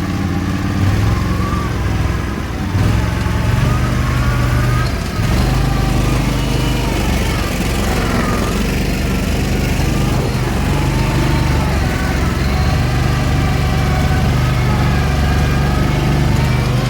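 Small off-road vehicle engine running steadily, a low even drone with slight changes in level.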